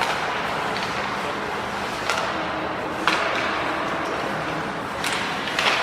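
Ice hockey play in an arena: several sharp clacks and scrapes of sticks, puck and skates on the ice, over a steady rink hubbub.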